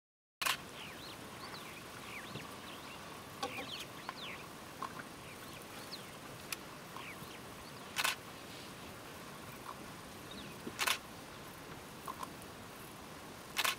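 Birds calling with many short chirps that slide up and down in pitch, over a steady background hiss. A few brief knocks cut in now and then, the loudest about 8 and 11 seconds in and near the end.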